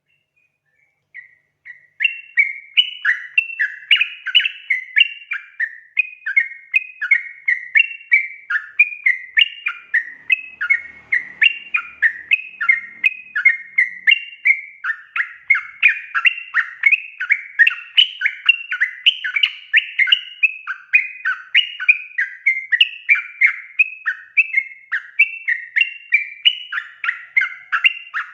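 Yellow-vented bulbul (trucukan) song: a steady stream of quick, bubbly, chattering notes starting about a second in and running on without a break, the kind of calling played as a lure to set other trucukan singing.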